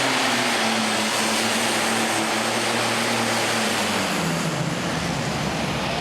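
Super Stock pulling tractor's engine running hard under load, with a high turbocharger whine above it. The engine pitch drops about four seconds in.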